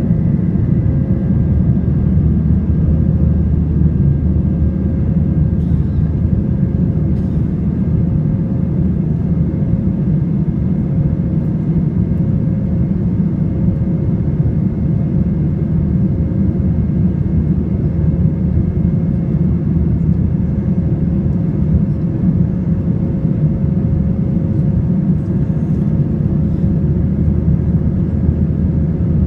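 Airbus A320 passenger cabin noise: the jet engines and airflow make a loud, steady low roar, with a faint steady hum and whine above it.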